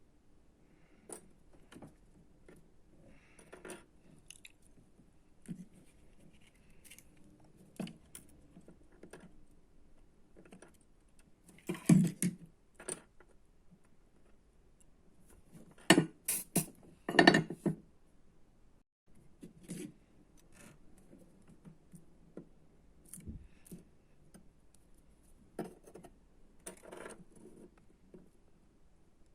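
Small tools and parts being handled on a workbench: scattered light clicks and scrapes, with louder clattering bursts about twelve seconds in and again around sixteen to seventeen seconds in.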